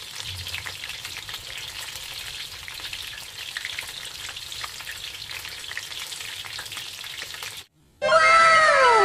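Flour-and-egg battered frog pieces frying in hot oil in a wok, a steady sizzle full of fine crackles. It cuts off near the end, and a short phrase of music with several falling tones begins.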